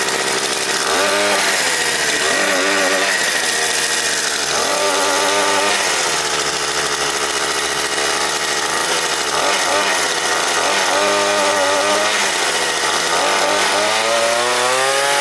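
Mototec Thunder 50cc pit bike's small single-cylinder engine running, just pull-started cold and warming up. It is revved up and back down several times, with a longer rev near the end.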